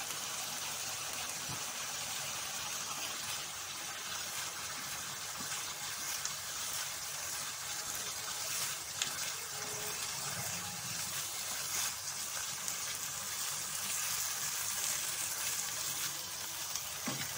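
Chicken mince sizzling steadily in hot oil in a non-stick wok while it is stirred with a silicone spatula.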